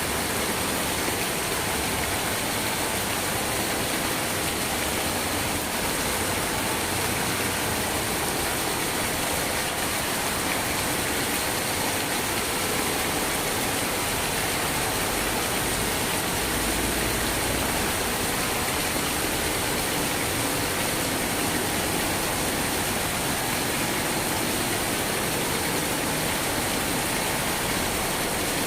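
Steady heavy rain: a dense, even hiss of falling drops with no breaks or changes.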